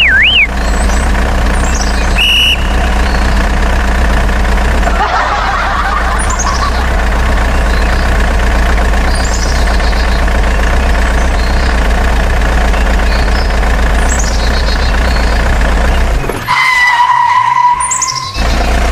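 A DIY model truck running steadily with a low engine-like hum, with short falling whistles over it. About sixteen seconds in, the hum cuts out and a steady, even tone sounds for about two seconds before the hum returns.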